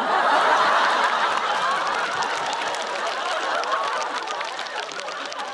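Studio audience laughing, with scattered clapping, breaking out loud all at once and slowly dying down.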